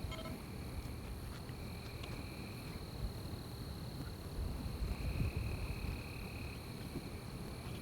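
Night forest ambience of insects singing: one steady high-pitched trill runs throughout, while a second, lower buzzing call sounds twice for a second or so each time, over a low rumble.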